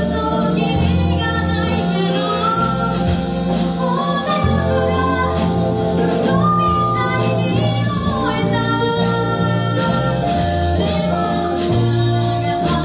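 Live band music: a sung vocal line over electric guitar, bass guitar and drums, played without a break.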